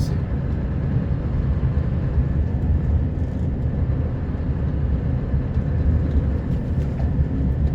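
Scania R560 plow truck's V8 diesel running steadily under way, a constant low rumble with road noise, heard from inside the cab.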